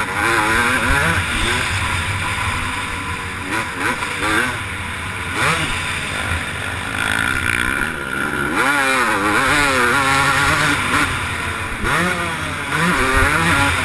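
Motocross bike engine revving hard while racing, its pitch rising and falling again and again as the rider accelerates and backs off.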